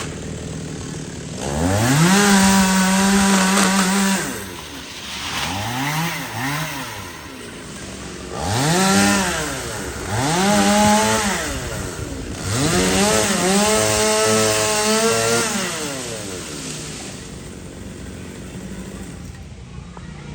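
Chainsaw revved up and down about five times, its engine pitch climbing to full speed and falling back between surges, then dropping to a low idle near the end.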